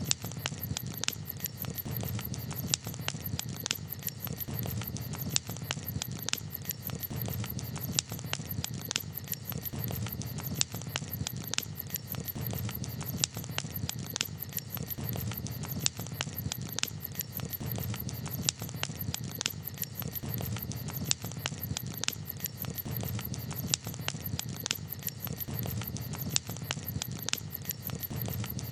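Wood campfire crackling: frequent, irregular sharp pops and snaps over a steady low rumble.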